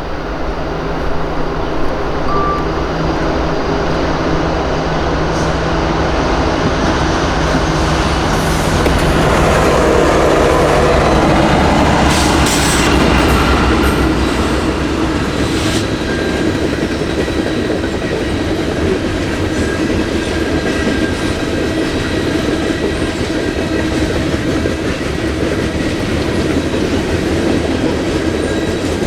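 Diesel locomotives leading a loaded coal train pass, loudest about ten seconds in, then the loaded coal cars roll by with steady wheel clatter and some wheel squeal.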